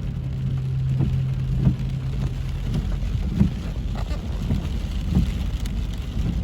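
Rain falling, with separate heavy drops striking a surface every half second to a second. A low held tone dies away about three seconds in.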